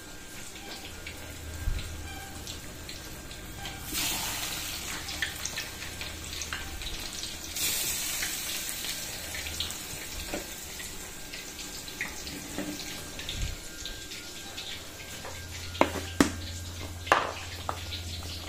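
Tofu frying in hot oil in a wok: a steady sizzle that surges louder twice, about four and seven and a half seconds in. A few sharp clicks near the end.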